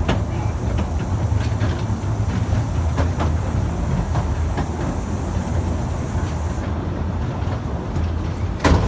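Efteling steam train running: a steady low rumble of the carriages on the rails with scattered clicks, and one loud sharp burst near the end.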